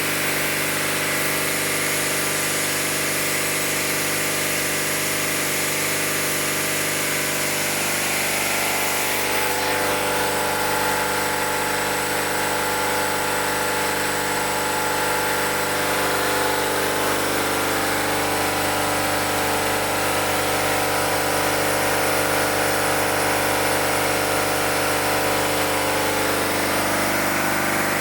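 Fire pump engine running steadily under test. About nine seconds in, a high hiss falls away and its note shifts slightly.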